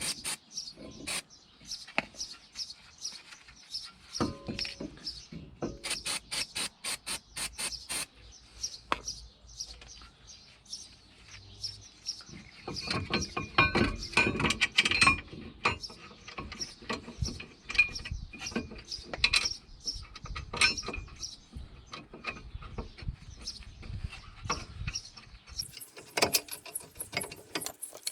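Clicks, clinks and knocks of hand tools and metal parts being handled while a car's front brake caliper support is refitted, with a quick regular run of clicks a few seconds in and a busier clatter about halfway through.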